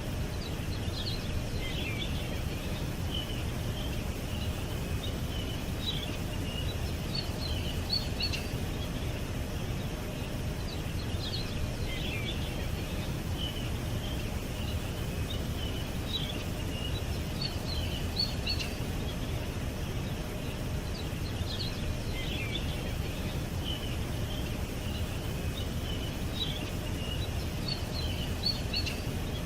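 Small songbirds chirping and twittering in short bursts that recur every five seconds or so, over a steady low rumble of background noise.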